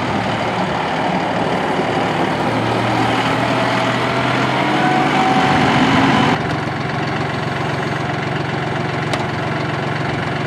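John Deere 5055E tractor's three-cylinder turbo diesel engine running. From about three seconds in its note rises and grows louder, then falls back suddenly a little after six seconds to a steady run.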